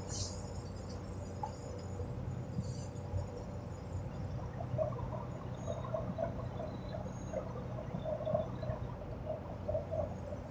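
Semi-truck engine running with a steady low drone, heard from inside the cab. From about five seconds in, short faint squeaks or chirps come over and over.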